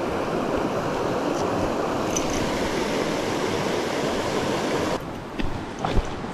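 Mountain stream rushing steadily. About five seconds in, the water noise drops abruptly, and a few short knocks follow.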